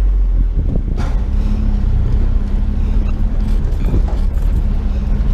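Truck driving, its engine and road noise heard as a steady low rumble from inside the cab, with a click about a second in.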